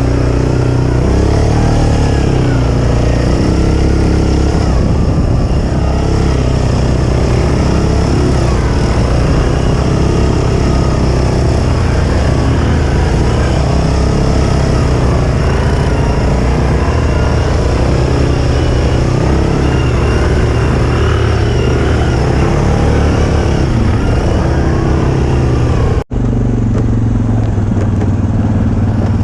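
ATV engine running under load as it is ridden, its pitch rising and falling with the throttle. Near the end the sound cuts off for an instant and resumes as a steadier, lower engine note.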